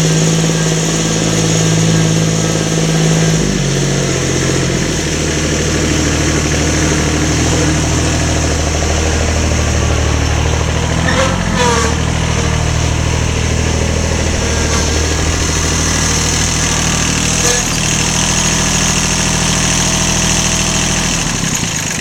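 A small engine running steadily, its pitch stepping down a little about four seconds in. It cuts off suddenly at the very end.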